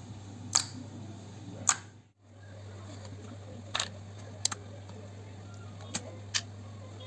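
Slime being worked by hand, giving sharp clicking pops every second or two over a steady low hum, which briefly drops out about two seconds in.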